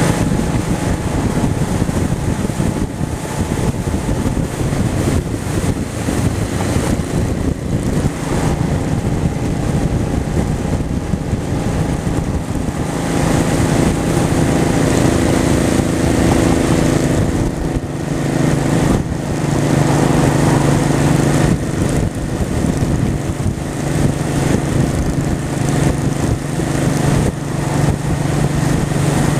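Honda Shadow's V-twin engine running while riding, over a steady rush of wind and road noise. The engine note changes pitch about halfway through and then settles again.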